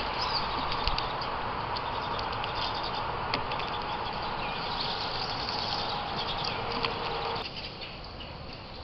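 Outdoor ambience: a steady rushing noise with a few faint bird chirps and small clicks. The noise drops suddenly about seven and a half seconds in.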